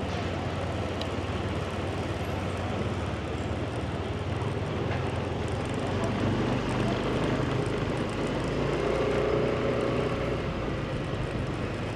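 Motorbike engine and road noise while riding through city traffic, steady throughout, with a louder hum swelling for a few seconds past the middle.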